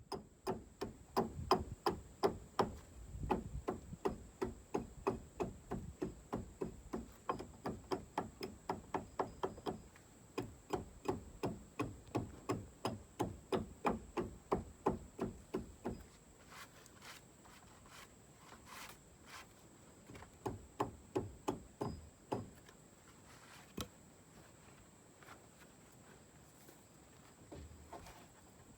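Hatchet chopping into a log in quick, steady blows, about two or three a second, then slowing to scattered strikes about halfway through.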